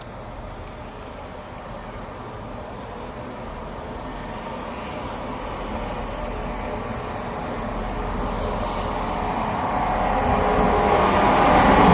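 A train approaching, its noise building steadily louder throughout and loudest at the very end.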